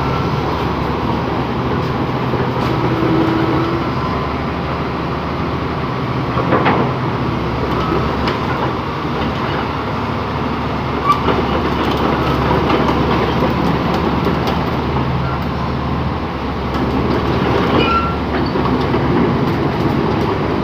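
Komatsu D85 bulldozer's diesel engine running steadily, with scattered metallic clanks and knocks over the engine sound.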